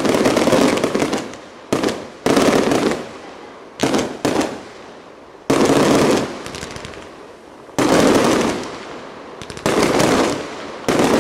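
Aerial firework shells bursting in the sky, about nine sharp bangs at uneven intervals, each trailing off over a second or so.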